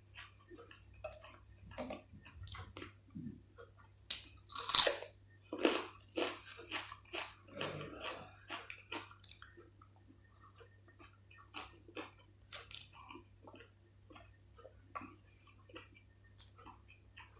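Close-miked eating sounds: biting and chewing food with wet mouth clicks and smacks. The loudest bites come in a cluster about four to six seconds in, followed by quieter, sparser chewing.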